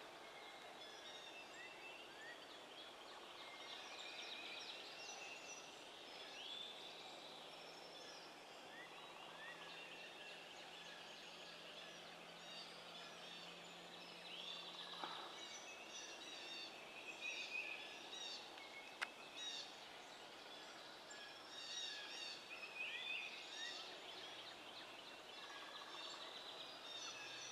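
Faint gobbling from a wild turkey tom, heard several times, over a steady background of songbirds chirping.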